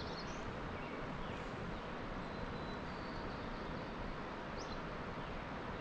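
Steady outdoor rushing noise with a few faint high bird chirps scattered through it.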